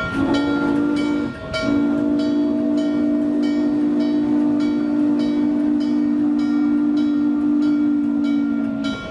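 Steam locomotive's chime whistle blowing a short blast, then a long steady blast of several notes sounding together, with a regular clicking beat from the moving train underneath.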